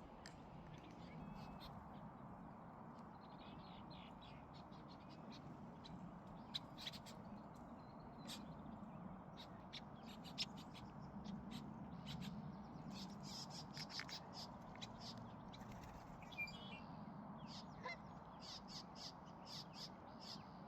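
Waterfowl and small birds calling over a steady low background, with many short sharp clicks and splashes from about six seconds in, the sound of a small bird bathing in shallow lake water.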